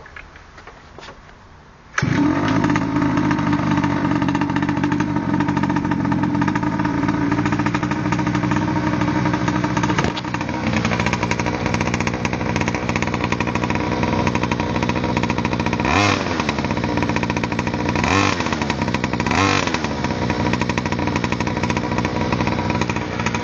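A mini moto's small two-stroke engine with a sports exhaust catches on a pull-start about two seconds in and runs loudly and steadily, with three short revs in the second half.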